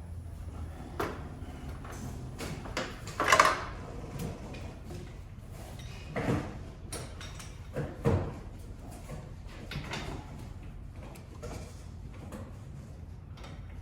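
Scattered clanks and knocks of hand tools and metal parts as a mechanic works on the rear shock absorber mounting of an SUV, the loudest about three seconds in, over a low steady hum.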